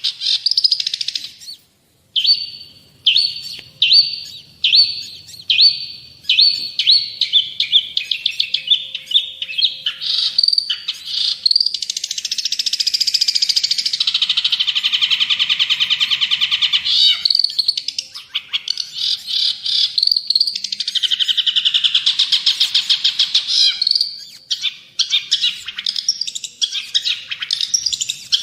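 Long-tailed shrike (cendet/pentet) singing in a loud, varied song. It opens with a run of separate harsh notes about one a second, then breaks into rapid chatter with two long, fast trills, the first near the middle and the second a few seconds later.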